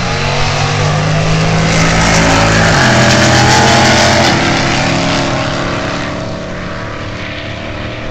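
Drag car's V8 engine at full throttle on a run down the strip, its note dropping in steps at each upshift, about three times. It grows loudest about halfway through, then fades as the car pulls away.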